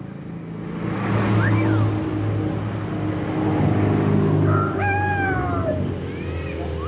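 Hill myna mimicking a rooster's crow: a short whistled note about a second and a half in, then a longer, falling, crow-like call near the five-second mark, over a steady low hum.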